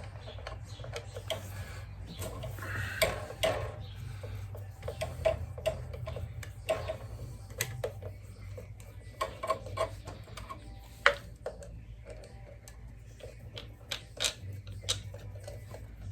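Irregular light clicks and taps of hand tools and small metal parts as screws are worked out of a motorcycle engine's side cover, over a steady low hum.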